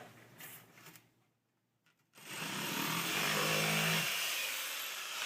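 Electric jigsaw running and cutting, coming in suddenly about two seconds in and running steadily.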